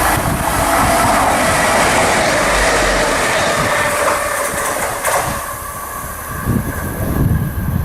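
A train passing on the railway, a loud steady rush of wheel and track noise that falls away about five seconds in, leaving low rumbling.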